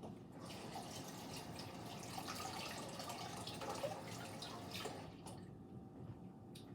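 Water running from a tap for about five seconds, then stopping.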